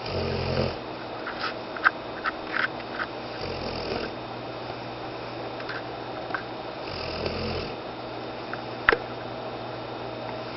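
Dog snoring in its sleep: three slow snores about three and a half seconds apart, with several short sharp clicks in between, the loudest near the end.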